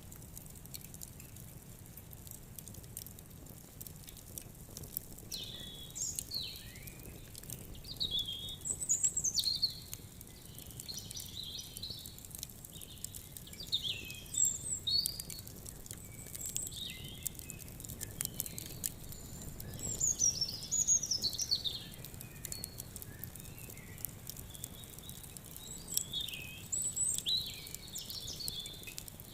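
Several birds singing and calling in short, sweeping phrases, loudest about nine and twenty seconds in, over a wood fire crackling with frequent small pops.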